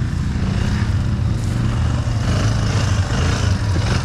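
ATV engine running steadily at low throttle.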